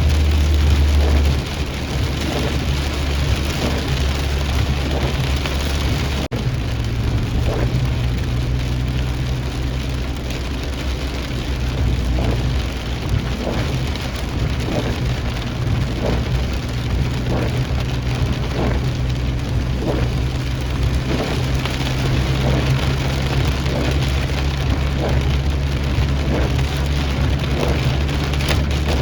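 Steady rain falling, with a constant low hum beneath it.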